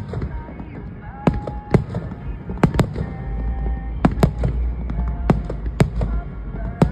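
Aerial fireworks bursting in quick succession: about a dozen sharp bangs at uneven intervals, one to three a second, over a low rumble, with faint music or voices beneath.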